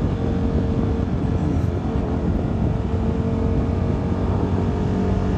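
CFMoto 300NK's single-cylinder engine running steadily at a low, even town speed, heard from the rider's helmet camera.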